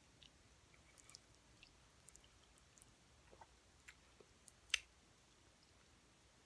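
Faint, close-miked chewing of a mouthful of food, with small wet mouth clicks scattered through, and one sharper click about three-quarters of the way through.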